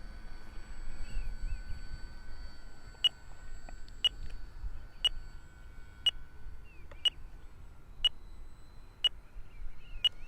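Spektrum RC transmitter's telemetry alarm beeping once a second, eight short high beeps starting about three seconds in. It is the alarm that tells the pilot it is time to land.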